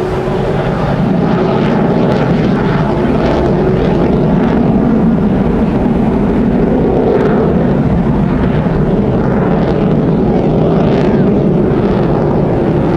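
Aircraft engines flying past: a loud, steady drone.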